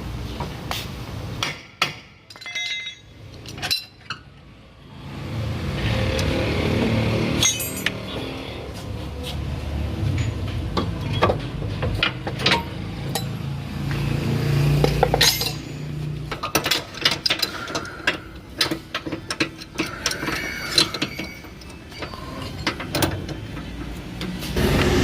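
Metal hand tools and car parts clinking and knocking in irregular taps and clacks during underbody repair work, over a low rumble.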